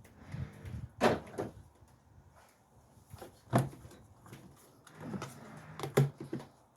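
Plastic airbox parts in a car's engine bay being worked loose and pulled out by hand: a series of hollow knocks and clunks, the sharpest about a second in, midway and near the end, with softer handling noise between.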